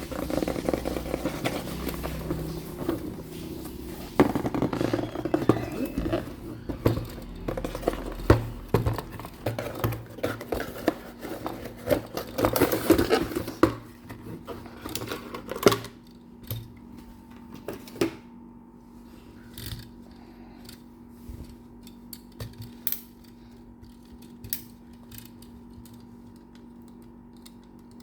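Miniature toy construction trucks being handled: close-up rustling, scraping and small plastic-and-metal knocks for the first half, then scattered light clicks over a faint steady hum.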